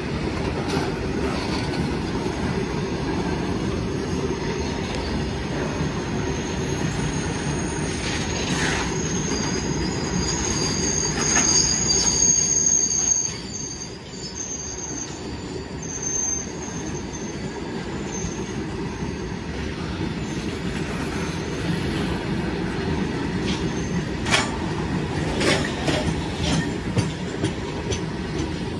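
Long goods train of open-top freight wagons rolling past close by, with a steady rumble of wheels on rail. A high-pitched wheel squeal runs from about six to sixteen seconds in. Sharp clacks come near nine and twelve seconds and in a cluster between twenty-four and twenty-seven seconds.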